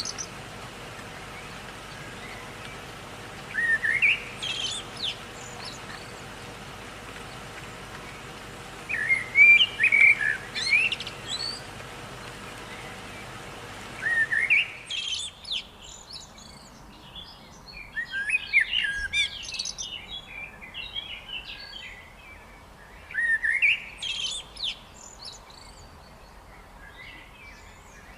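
Songbird singing in short bouts of quick, rising chirped phrases every few seconds, over a steady background hiss. About halfway through, the background changes and becomes quieter.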